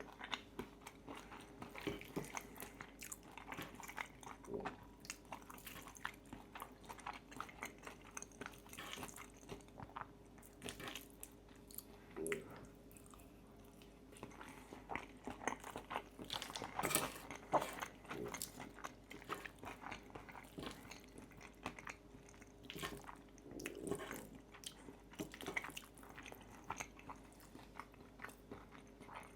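Close-miked eating sounds: biting and chewing pasta with crispy bacon, with many small crunches and moist chewing clicks. The crunching is densest and loudest just past the middle.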